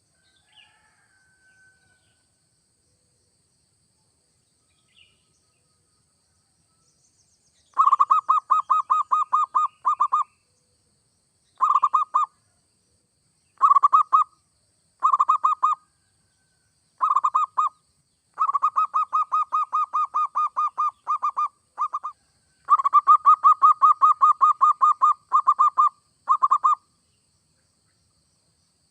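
Zebra dove (perkutut) cooing in bouts of rapid, evenly spaced staccato notes, starting about eight seconds in after a quiet opening with a few faint chirps, the bouts separated by short pauses.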